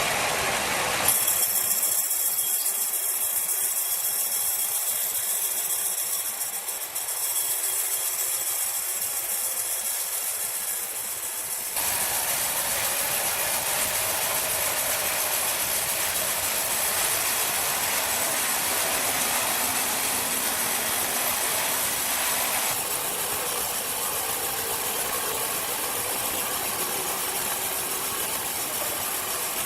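Steady, loud noise of a running engine-driven machine. Its character changes abruptly about a second in, again about twelve seconds in, and again about twenty-three seconds in.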